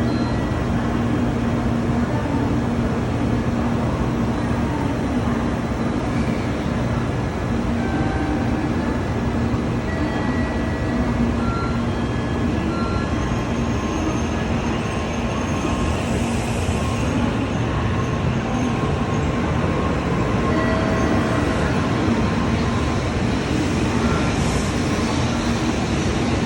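Train running noise: a steady, unbroken rumble and rush with no pauses.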